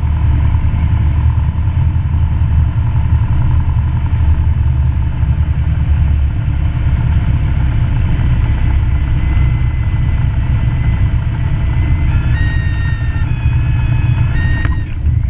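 Cessna 172 engine and propeller running steadily, heard inside the cabin as a dense low drone. In the last few seconds a high, whistle-like tone steps up and down in pitch several times over the drone and cuts off suddenly.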